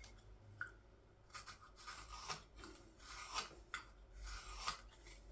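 Knife shaving the back of a green-wood scoop: a run of short, faint scraping cuts, roughly one every half second.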